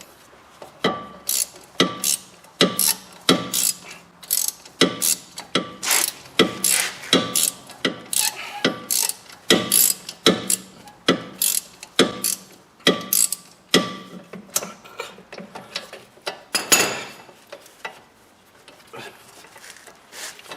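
Ratchet wrench backing out a stubborn, rusted wheel-bearing mounting bolt: bursts of ratcheting clicks about once a second, thinning out after about fourteen seconds, with a longer scrape near the end.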